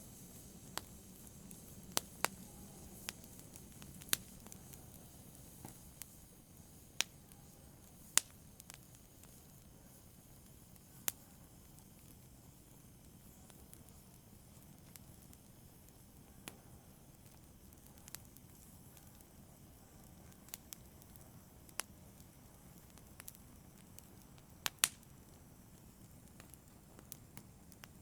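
Small wood fire crackling softly: irregular sharp pops and snaps scattered over a low, steady hiss.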